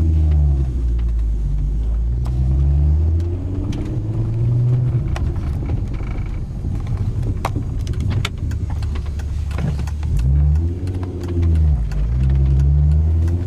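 VW GTI's VR6 24-valve engine accelerating, its pitch climbing and dropping several times, with scattered sharp knocks over the engine note, thickest in the middle. The knocking comes only under acceleration, which the owner takes for a drivetrain fault.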